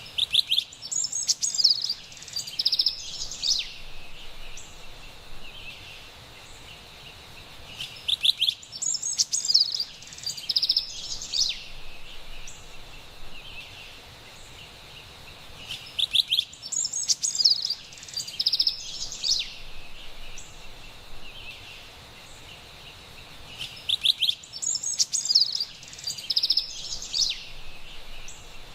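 Carolina wren singing: four near-identical bursts of song, each a few seconds long, about every eight seconds, over a faint steady background hiss.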